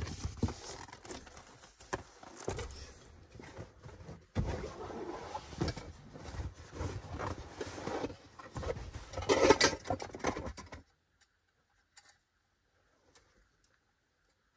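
Rustling and crinkling of a large fabric bag and bedding being handled and unpacked, with small knocks, loudest about nine and a half seconds in. It stops about eleven seconds in, leaving near quiet with a few faint clicks.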